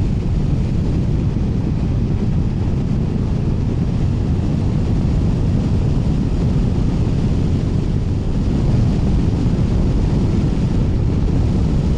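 Steady wind rush over the helmet-mounted microphone with road and engine noise underneath, from a Triumph Tiger 900 Rally Pro motorcycle ridden at road speed.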